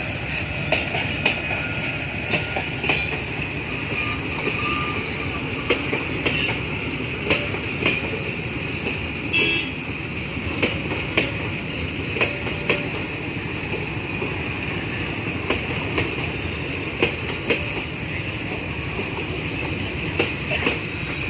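Passenger train coaches rolling past close by: a steady rumble with sharp clacks, mostly in pairs, as the wheelsets cross rail joints, and a steady high-pitched ring over it.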